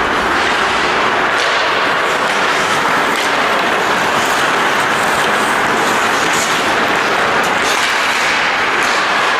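Ice hockey rink ambience during play: a steady noisy wash with scattered sharp clicks, typical of skates, sticks and puck on the ice.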